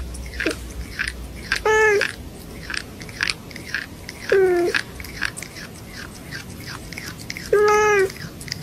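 A cat chewing and crunching food with a steady run of small crunches. Three short, level meow-like calls come about two, four and a half, and eight seconds in.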